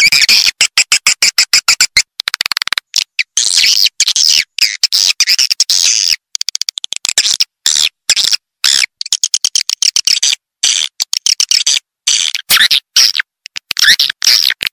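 Recorded calls of edible-nest swiftlets: fast trains of dry clicks and high chattering chirps, cut by frequent abrupt short gaps. It is an edited calling track of the kind played to lure swiftlets into a nesting house.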